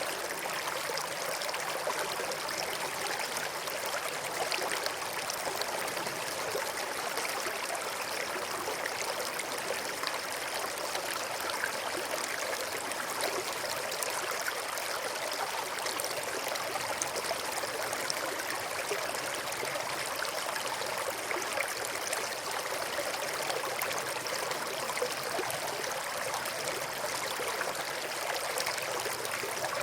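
River water flowing steadily over rocks: a continuous rushing and burbling with many small splashes and trickles.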